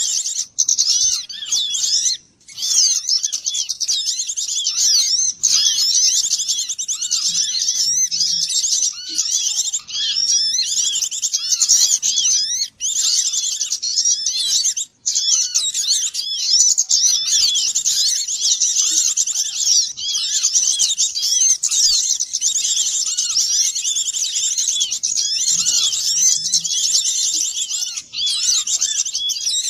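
Dense chorus of many small songbirds chirping and twittering over one another without pause, a small-bird lure recording. The sound cuts out for a split second about 2 s in and again near 13 and 15 s, where the recording is spliced.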